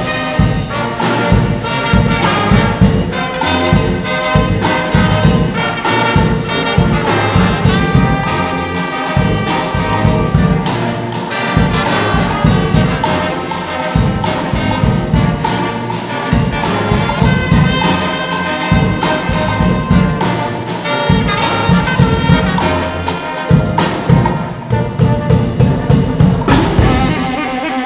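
A junior brass band playing an upbeat piece: trumpets and trombones over a steady drum beat.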